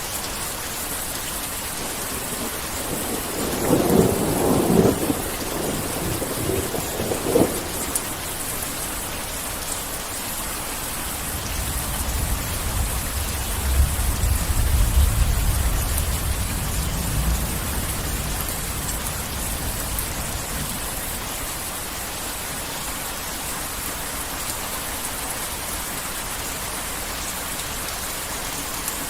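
Heavy rain falling steadily, with thunder: sharp cracks about four seconds in and again near seven and a half seconds, then a long, deep rumble that builds from about eleven seconds and fades out by about twenty.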